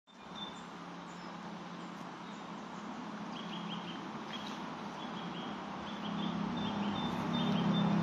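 Small birds singing in woodland: short high notes repeated in quick runs, over a steady hiss. A low hum rises steadily toward the end.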